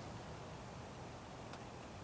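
Quiet outdoor winter ambience: a steady low background rumble and hiss, with a single faint tick about one and a half seconds in.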